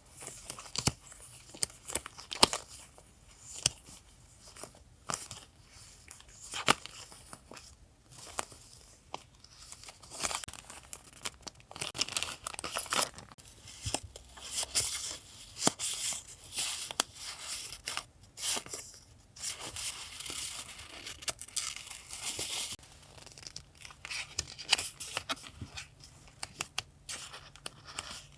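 Paper and packaging being handled up close: crinkling and tearing, with frequent small taps and clicks and a few longer stretches of rustling.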